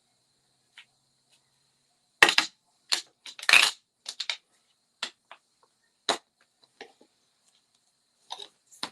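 A run of sharp clicks and knocks, about a dozen over four seconds and then a few more near the end, from stamping tools and supplies being handled and set down on a craft table.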